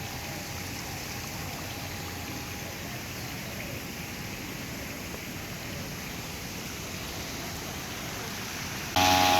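Steady rush of running water from a fish pond. Near the end, a much louder steady hum with several pitches cuts in suddenly.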